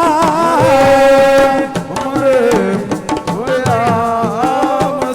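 Live assiko music: a singer holds and slides long wordless notes, wavering in pitch, over a dense, steady pattern of hand-drum strokes.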